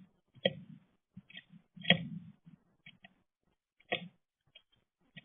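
Scattered knocks and ticks of birds on a window bird feeder, pecking and landing: three louder knocks and several faint ticks between them.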